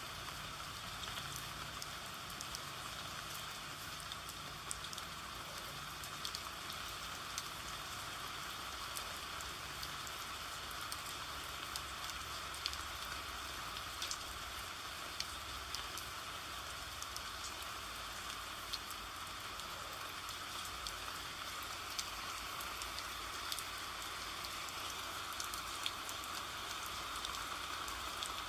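Steady rain falling, an even hiss sprinkled with many small sharp drop ticks.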